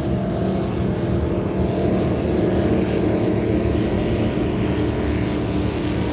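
Classic offshore racing powerboats running at speed: a loud, steady engine drone that swells slightly partway through.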